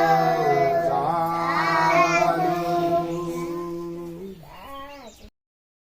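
Singing voice over a steady held drone, a melodic line bending above it. It fades and then cuts off abruptly about five seconds in, leaving dead silence.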